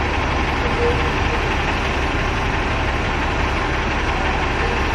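Strong wind buffeting the microphone, a steady rumble and hiss, over a double-decker bus's engine idling.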